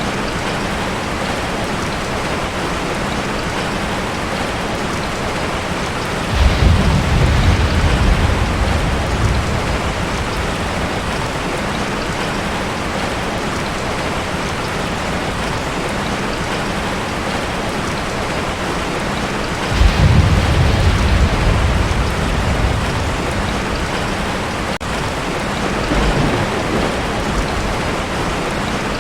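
Heavy rain falling steadily on a tin roof, with thunder rumbling twice, each roll lasting a few seconds, starting about a quarter and about two-thirds of the way in, and a fainter rumble near the end.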